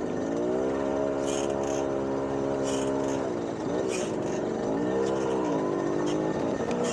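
Small 50cc two-stroke moped engine running on the road. Its pitch holds steady, dips briefly about halfway through, then rises and falls again, with short gusts of hiss over it.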